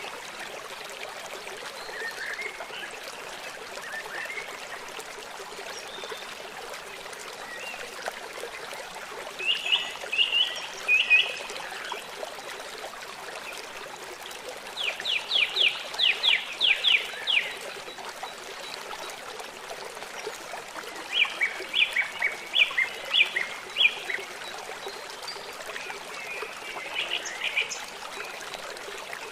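Steady rush of running water, with songbirds calling over it in several bursts of quick repeated high notes.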